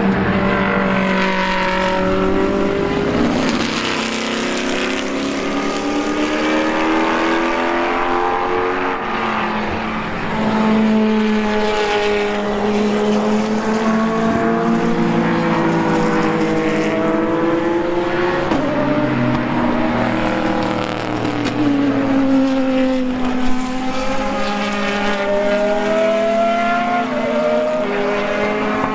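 Racing car engines on track, several at once, revving up and down through gear changes as the cars pass.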